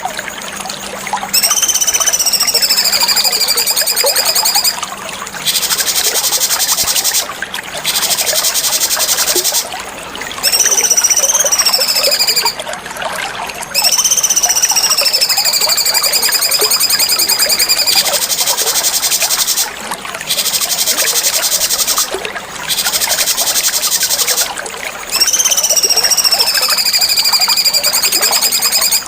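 Cucak cungkok song: long slurred whistles that slide down in pitch, alternating with fast, buzzy chattering trills, over a steady background hiss.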